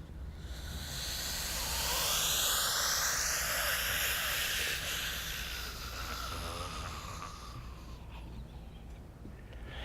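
A person making a long, breathy hissing vocal effect with gliding whistly pitches, an eerie spirit voice. It swells over the first couple of seconds, then slowly fades away.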